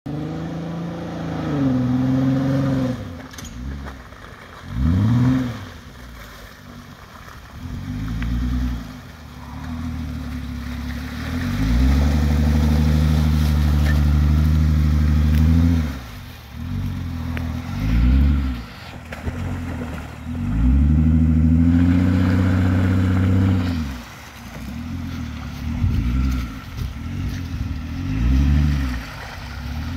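Jeep Wrangler JK engine revving in repeated surges as it is driven through deep mud ruts and puddles, the longest surges held for about four seconds. A crunching noise, which the owner cannot identify, comes with the driving.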